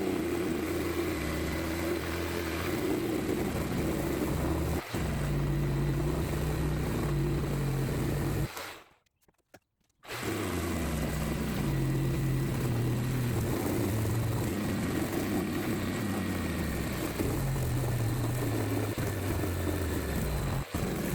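A handheld electric power tool, most likely a sander working body filler on a car's wheel arch panel, running steadily with its motor pitch wavering as it is pressed and eased. It cuts out for about a second and a half a little before the middle, then runs again.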